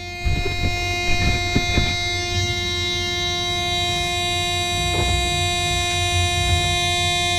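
The 1984 Chevy B60 school bus's 366 cubic inch gas V8 is being cranked on the starter for a cold start, choked, with a low pulsing rumble. A steady warning-buzzer tone sounds over the cranking.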